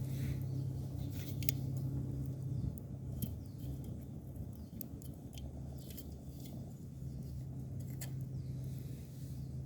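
Wood fire crackling with irregular sharp pops and snaps, over a steady low hum that drops away about three seconds in and returns a few seconds later.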